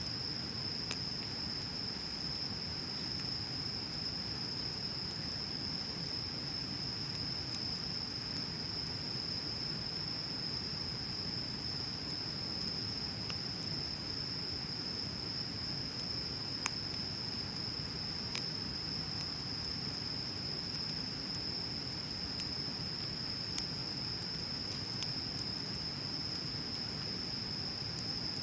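Wood bonfire burning with a low steady rush and scattered crackles and pops, one sharper pop about 17 seconds in. Underneath runs a steady high-pitched chirring of crickets.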